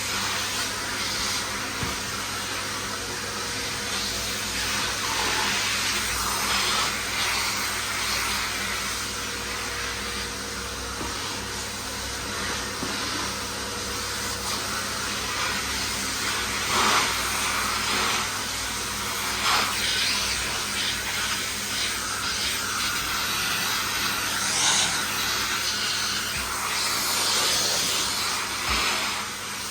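Miele vacuum cleaner running steadily, with a few brief louder crackles near the middle and later on as debris is sucked up.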